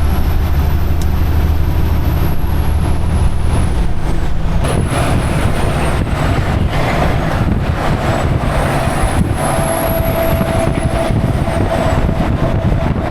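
Semi truck's diesel engine running, its low drone changing about four seconds in, with a faint high whistle that rises and falls.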